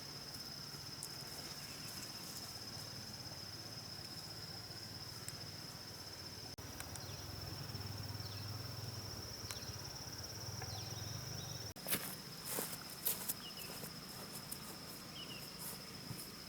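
Insects, crickets or cicadas, buzzing in one steady high note. The buzz breaks off abruptly twice. Just after the second break comes a quick cluster of sharp knocks or clicks.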